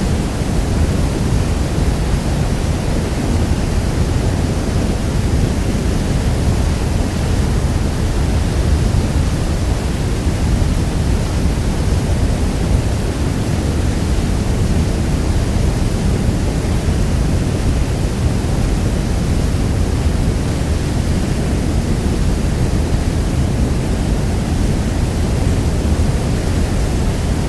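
Niagara Falls: a massive waterfall's steady, deep rushing noise, heaviest in the low end and unchanging throughout.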